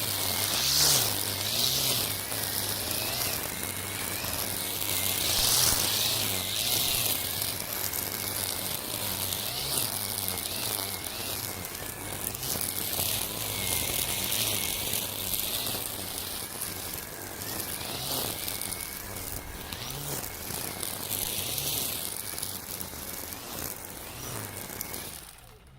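Makita 40V cordless brush cutter spinning nylon cutting line through overgrown weeds: a steady motor whine under the hiss of the line whipping grass, swelling as it bites into thick patches. It cuts off suddenly near the end.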